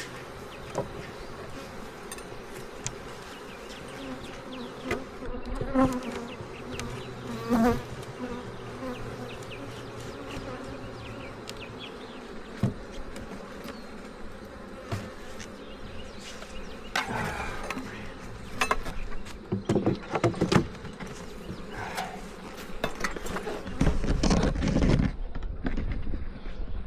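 Honeybees buzzing around an opened hive, a steady hum with individual bees passing close. Scattered knocks, and a louder stretch of noise near the end.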